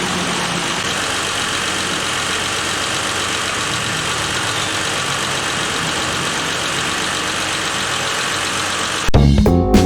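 A vehicle engine idling steadily. About nine seconds in it gives way abruptly to guitar music with drums.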